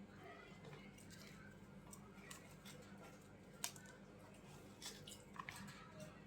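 Near silence with faint scattered clicks and small crackles, and one sharper click a little past halfway.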